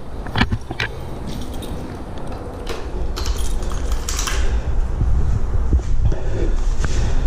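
Scattered light clicks and clinks of things being handled, over a steady low rumble.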